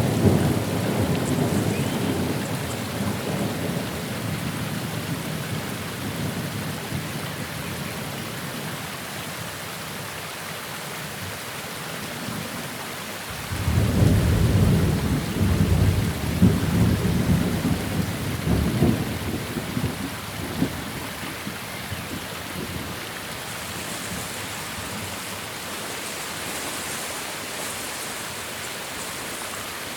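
Steady rain during a thunderstorm, with two long rolls of thunder: one fading away over the first few seconds, and another breaking in suddenly about halfway through and rumbling for several seconds before dying down.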